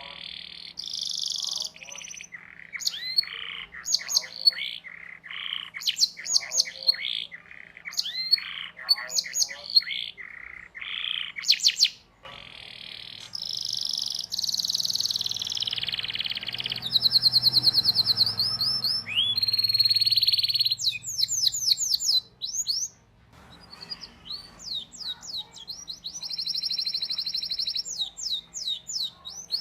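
Domestic canary singing a long, varied song: quick chirping notes and fast rolling trills, the rolls rapid and closely spaced in the second half.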